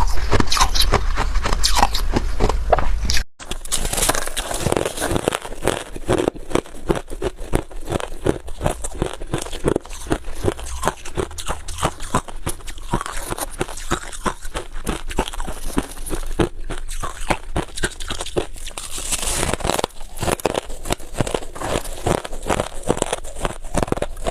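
Freezer frost and ice being bitten and chewed: a dense, irregular run of crisp crunches and crackles, broken by a brief gap about three seconds in.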